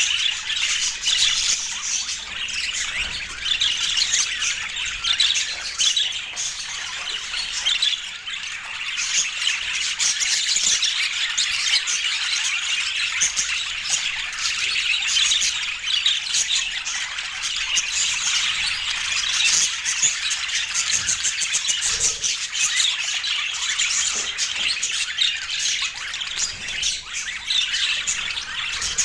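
Budgerigars chattering and warbling, an unbroken stream of quick chirps, twitters and squawks.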